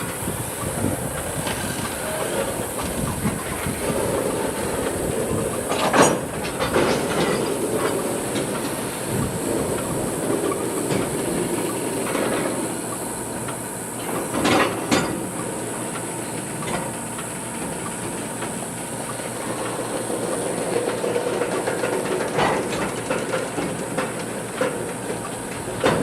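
Freight train cars rolling past, wheels clattering over the rail joints, with two sharp metallic clanks, one about six seconds in and one about fourteen seconds in.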